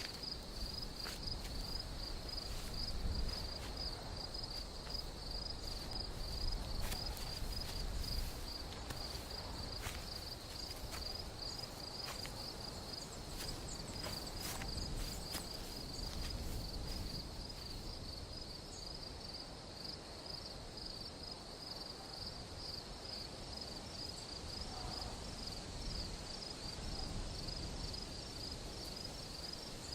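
Cricket chirping in a steady, fast pulsing trill, with a few faint scattered clicks and knocks in the first half.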